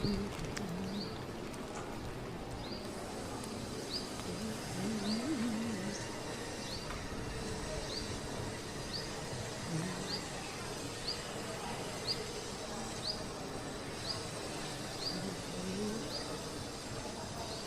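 Steady hiss of rain, with a bird giving a short rising chirp about once a second and a few low calls underneath.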